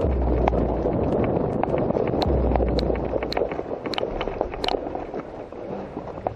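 A player running, with footfalls and gear rattling in quick, irregular clicks and knocks, and wind buffeting the body-worn microphone.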